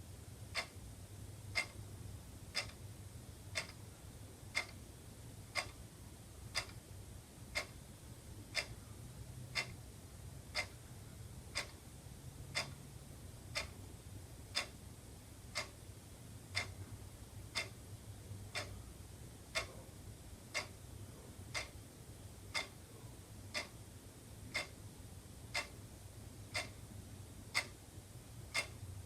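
Wall clock ticking steadily, about one tick a second, each a short sharp click.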